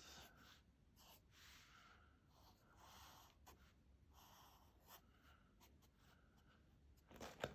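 Faint pen strokes scratching on paper: a series of short, irregular strokes with a few small clicks, as a cartoon cat's face is drawn.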